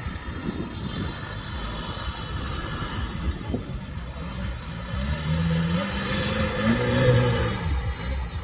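Off-road trial car's engine labouring at low revs, then revving up about five seconds in as it climbs out of a gully, its pitch rising, holding, and dropping back near the end.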